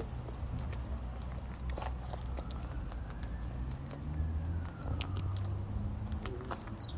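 Cockatoo eating in a seed bucket: scattered small clicks and cracks of its beak on the seed, over a steady low rumble.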